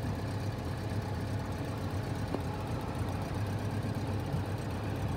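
2013 Chevrolet Tornado pickup's four-cylinder petrol engine idling steadily, heard close up with the hood open.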